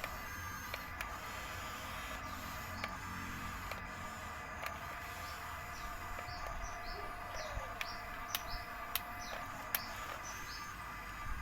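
A steady low machine rumble with a few sharp clicks, and a run of short high bird chirps from about the middle to near the end.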